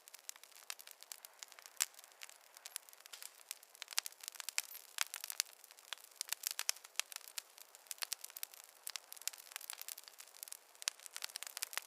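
Fire crackling in a fireplace: a dense, irregular run of sharp pops and snaps over a faint hiss.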